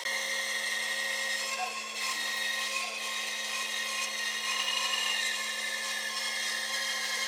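A handheld electric power tool running steadily on wood, with a high motor whine over a low hum.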